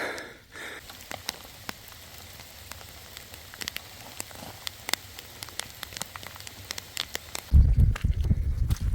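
Rain falling, with scattered sharp drips and patters over a soft steady hiss. Near the end a loud, low rumble sets in.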